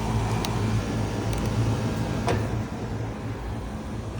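Bryant commercial package unit running in cooling, its condenser fan motors turning with a steady low hum and airflow noise. Three light clicks come in the first half.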